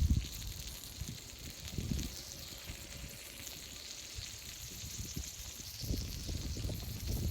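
Steady high hiss of food sizzling on a thick iron griddle plate, with low wind rumble on the microphone at the start and again from about six seconds in.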